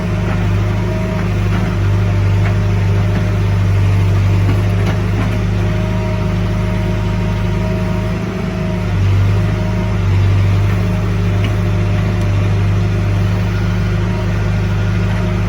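Diesel engine of heavy earthmoving equipment running steadily with a low, even hum, swelling slightly twice a little past the middle.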